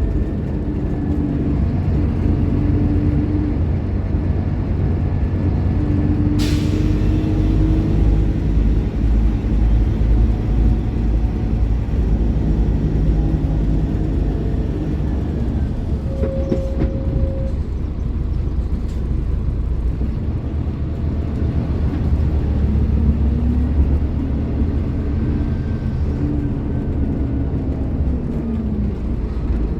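Scania K310IB bus's rear-mounted five-cylinder diesel engine running under way, its pitch rising and falling as it pulls and eases off. A brief sharp sound about six seconds in stands out over the engine.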